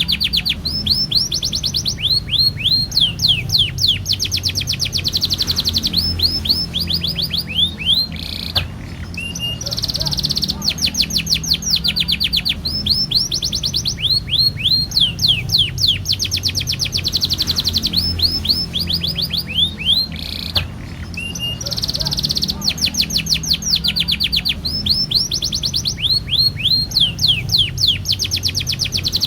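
Domestic canary singing a long rolling song: phrases of fast, rapidly repeated high notes follow one another, with brief breaks about 9 and 21 seconds in. A steady low hum runs underneath.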